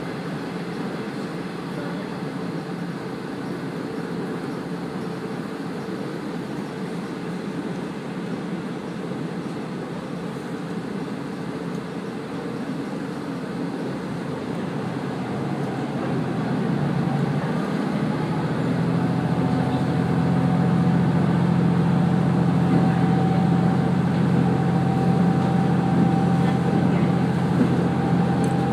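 Diesel railcar running along the track, heard from on board. About two-thirds of the way in, the engine note swells and grows louder, with a thin whine that slowly rises in pitch as the train picks up speed.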